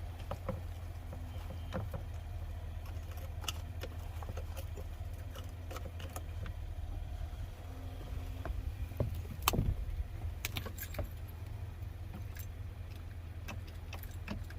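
The 1985 Four Winns 170 Horizon's engine running at a steady low idle after a reluctant start, with scattered light clicks and rattles over it.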